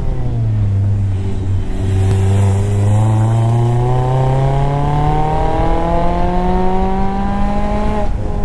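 Mazda MX-5 Miata's four-cylinder engine pulling hard through a gear with the roof down, its pitch rising steadily for about seven seconds and then breaking off near the end. Wind and road rumble run underneath.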